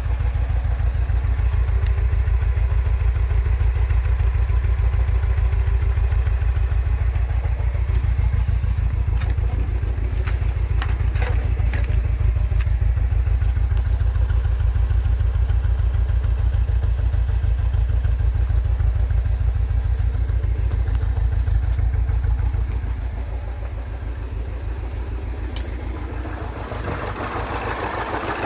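Mini Cooper engine idling with a steady, rapid low pulse. It gets somewhat quieter a little past the middle, and a hiss rises near the end.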